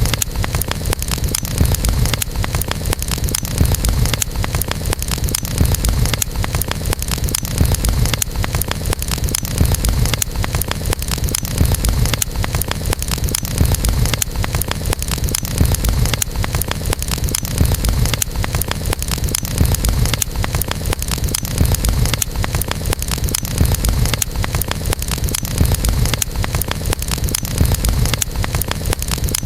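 Campfire burning: a steady low rumble of the flames with dense crackling of burning wood.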